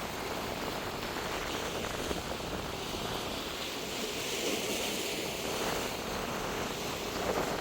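Steady outdoor ambient noise: an even, featureless wash with no distinct events.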